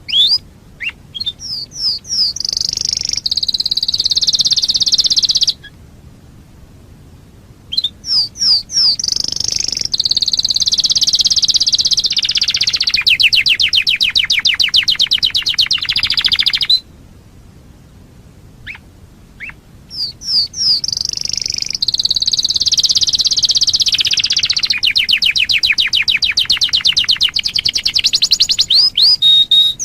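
Canary singing in three long bouts of rapid trills and rising chirps, with pauses of about two seconds between bouts.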